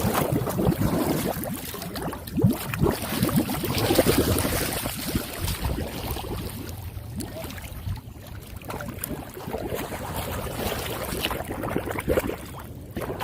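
Floodwater splashing and sloshing around a storm drain being cleared, busiest in the first five seconds, then settling into a steadier wash of moving water.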